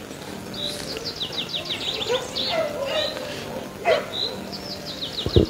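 Songbird singing: two quick runs of short, high, falling notes, each about a second long, with a few single chirps between them. A short, low thump comes near the end.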